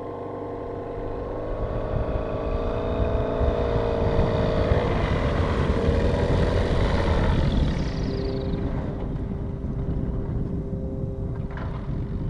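A light propeller airplane's engine at high power grows louder, its pitch dropping about halfway through as it passes close by, then fades. A steady, lower engine hum remains afterwards.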